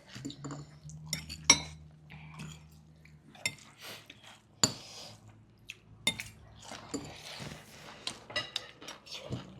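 Cutlery clinking against dishes and bowls during a meal: irregular sharp clinks and taps, the loudest about a second and a half in and again around four and a half and six seconds in.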